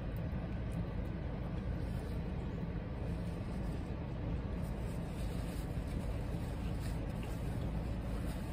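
Steady low hum of a car idling, heard from inside the cabin, with faint chewing over it.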